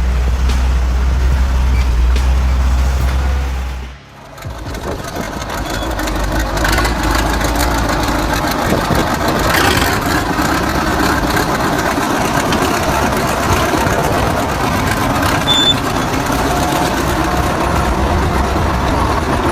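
Heavy vehicle engines running, with a steady low drone for the first few seconds. The sound drops out briefly at about four seconds, then gives way to busier rumbling machinery noise.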